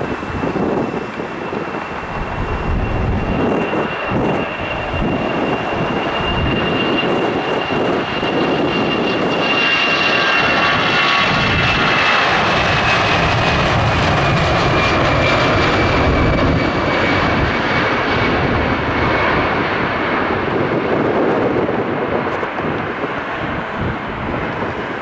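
Airbus A320-214's CFM56 turbofans at takeoff power: a steady jet roar with a thin high fan whine. The roar swells about ten seconds in, and the whine then slowly drops in pitch as the jet passes. Wind buffets the microphone throughout.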